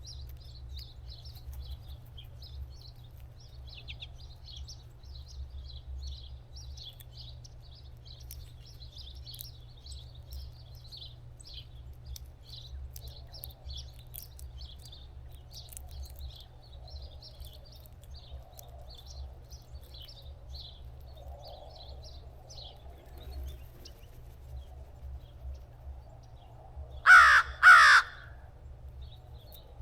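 A crow caws twice in quick succession, loudly, near the end, over steady high twittering of small birds and a low rumble.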